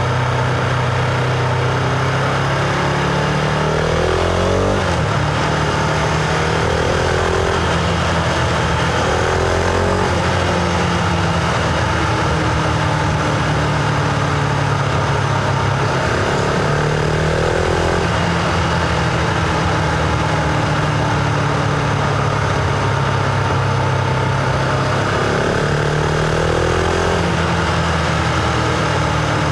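Husqvarna Vitpilen 701's single-cylinder engine pulling the bike along, its note rising and falling several times with throttle and gear changes, over steady wind and road noise.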